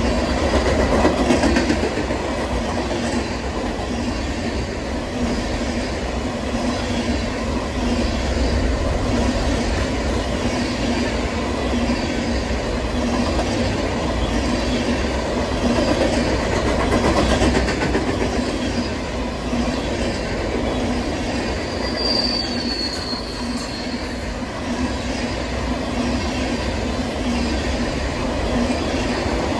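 Freight train of flatcars loaded with wind turbine blades rolling past: a steady wheel-on-rail rumble with repeated clatter as the wheels pass over the track. A brief high wheel squeal sounds about three-quarters of the way through.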